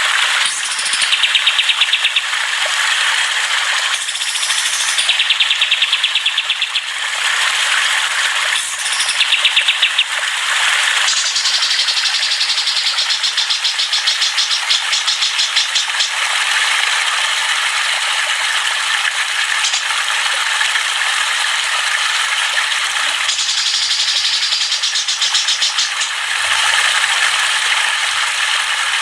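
Songbird chatter: dense, rapid high trills and chirps running on, the pattern changing every few seconds.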